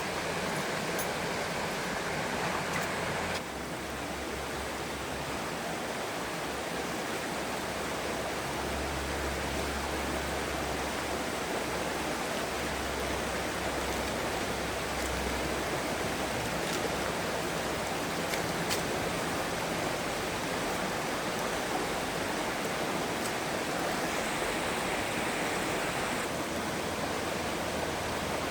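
Stream water rushing steadily, a continuous hiss of flowing water.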